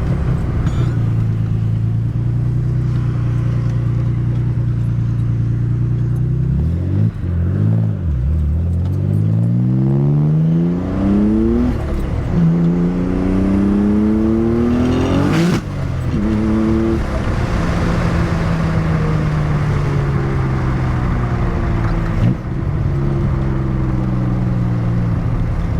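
Nissan 300ZX (Z32) twin-turbo V6 with open-dumped wastegates, running steadily, then accelerating hard with revs climbing through gear changes about 12 and 15 seconds in. A sharp crack comes at the second shift, then the engine speed sinks slowly as it eases off.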